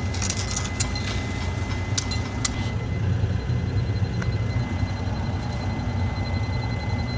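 Diesel engine of a piece of heavy equipment running steadily, with a thin high whine over it. Several sharp metallic clinks come in the first two and a half seconds.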